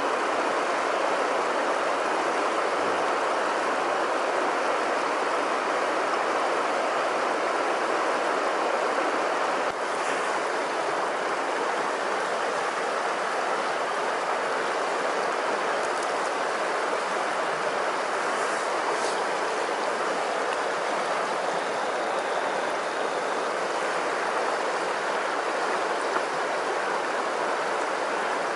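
River water rushing over its bed in a steady, even flow.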